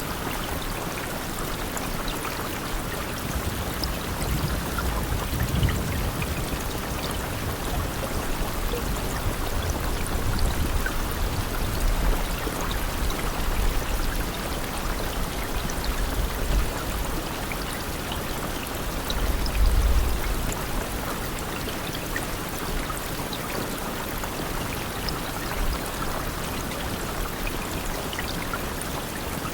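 Steady rainfall: an even hiss with scattered ticks of individual drops. Low rumbles swell up a few times, the strongest about 20 seconds in.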